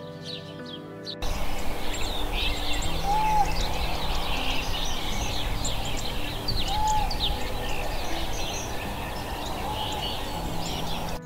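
Outdoor nature ambience: a dense chorus of many small birds chirping high over a loud, steady rushing noise, cutting in suddenly about a second in. A short, low whistled call comes three times, about three and a half seconds apart. Soft background music plays underneath.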